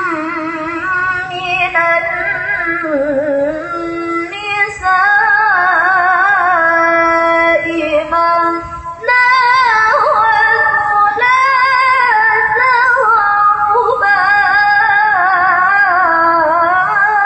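Quran recitation (tilawah) in a melodious style: one high voice holding long phrases with wavering, ornamented runs of pitch, broken twice by short pauses for breath.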